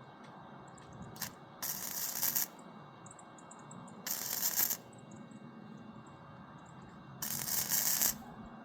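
Three short tack welds, each a crackling, hissing arc lasting just under a second, with a pause of about two to three seconds between them, joining the metal frame at single points.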